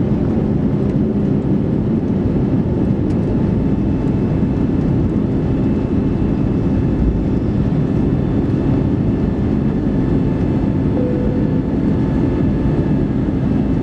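Steady cabin noise inside an Airbus A321neoLR under way: a continuous low rumble of engines and airflow with a faint steady hum, unchanging throughout.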